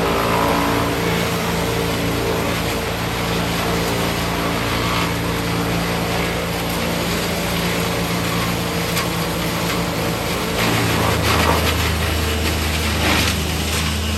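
A heavy machine's engine running steadily with a low, even drone. About ten and a half seconds in, its note shifts lower and grows stronger.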